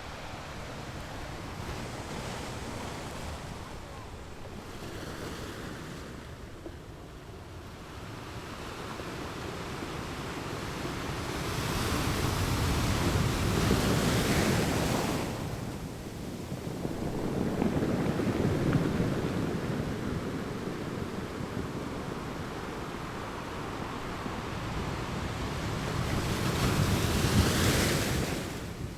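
Ocean surf on a beach: waves breaking and washing in, swelling and fading in long surges a few seconds apart, loudest around the middle and again near the end.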